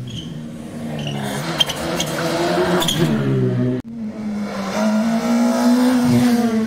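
Rally car engine accelerating hard, its pitch climbing, with a few sharp cracks. Near the middle it cuts abruptly to a second engine rising and held at high revs.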